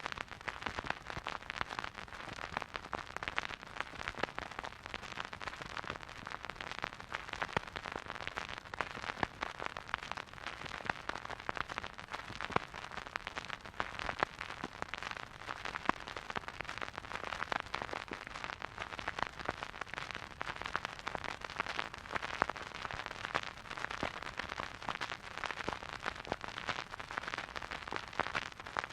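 Surface noise of a vinyl record playing a silent groove: dense, irregular crackles and pops over a steady hiss.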